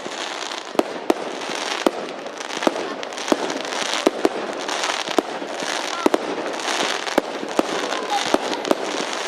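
Fireworks going off: sharp cracks and bangs at irregular intervals over a continuous hissing crackle that swells and fades.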